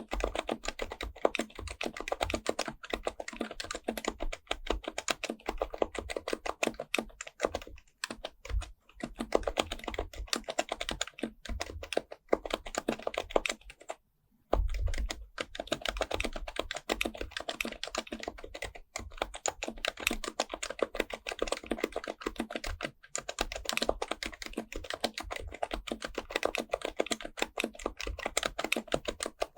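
Fast, continuous typing on an HHKB Professional Type-S keyboard, its silenced Topre capacitive key switches pressed in rapid runs, with a brief pause about halfway through.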